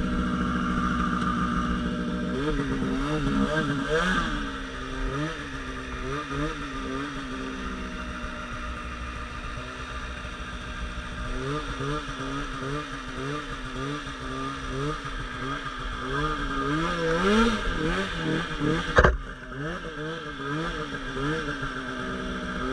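Polaris RMK Pro 800 snowmobile's two-stroke engine running under throttle, revving up and down over and over, its pitch rising and falling about once a second. A single sharp knock about 19 seconds in.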